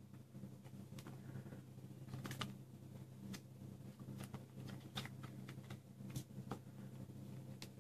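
Small cards handled by hand: scattered sharp clicks and snaps of card edges, about nine in all, over a steady low hum.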